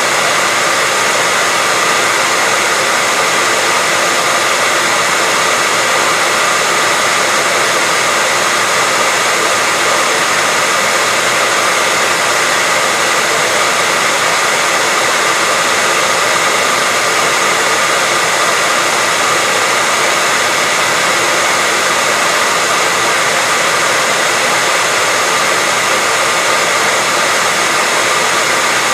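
Hairdryer running steadily: an even rushing of air with a faint steady whine from the motor, unchanging throughout.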